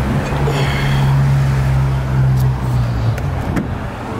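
Car engine idling close by, a steady low hum that eases off about three seconds in. A few sharp clicks follow near the end, as the car door is unlatched and opened.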